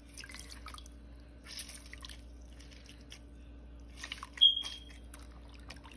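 Wet squelching of raw chicken wingettes and lemon being handled in a bowl, in a few short spells, with one sharp click about four and a half seconds in.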